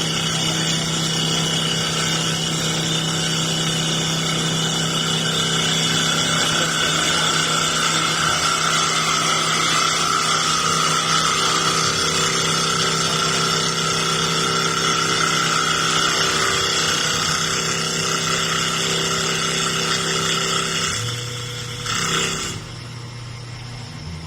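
Wood CNC turning lathe running, a steady machine hum with a high whine over it. Near the end it drops off, rises briefly once, and settles to a quieter hum.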